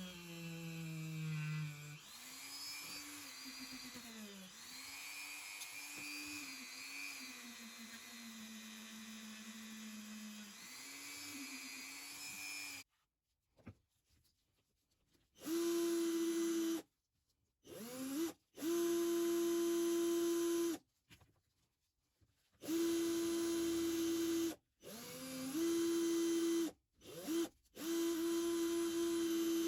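Small electric power tool running, its pitch repeatedly dipping and recovering as it bears on the work. Past the middle it comes in several short runs at a steady, higher pitch, each broken off by a sudden silence.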